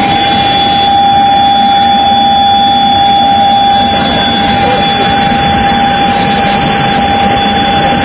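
Jet aircraft engines running steadily: a loud, even rush with a constant high-pitched whine over it.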